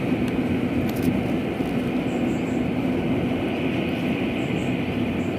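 Rice combine harvester running steadily in the field: a continuous engine and threshing drone that holds level throughout.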